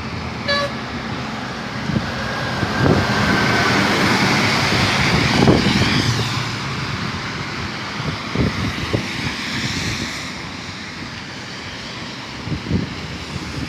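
Wind buffeting the microphone over road traffic noise, with a short horn toot about half a second in.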